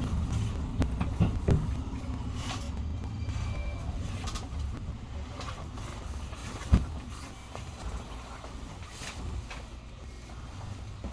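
Electric commuter train running on the rails: a steady low rumble with a few sharp knocks from the wheels, growing quieter toward the end.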